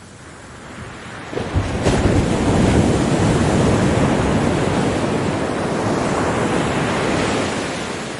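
Ocean wave breaking on a beach. The surf swells about a second in, crashes, then washes up the sand for several seconds before it fades near the end.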